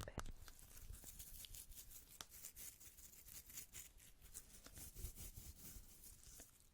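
Soft ASMR trigger sounds close to a sensitive microphone: a fast, irregular run of faint, light clicks and taps.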